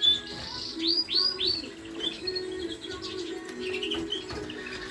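Small cage birds (canaries and finch mules) chirping, with a quick run of three falling chirps about a second in and scattered short calls after, over a low wavering hum.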